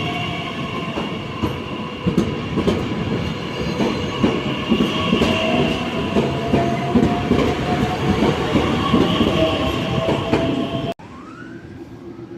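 A train rolling through a station, its wheels clattering irregularly over rail joints and points, with steady high whining tones over the clatter. The sound drops off abruptly about eleven seconds in.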